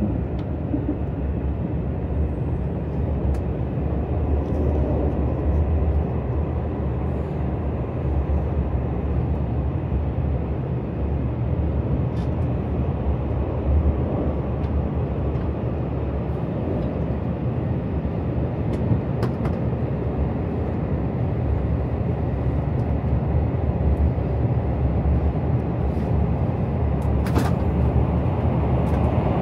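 KTX high-speed train running at speed, heard from inside the passenger car as a steady low running noise, with a few light clicks along the way.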